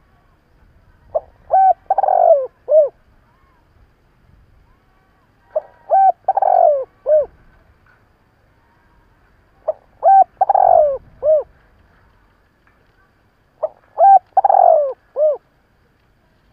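Spotted dove cooing: four call phrases about four seconds apart. Each is a few short coos and a longer falling coo, closed by one more short coo.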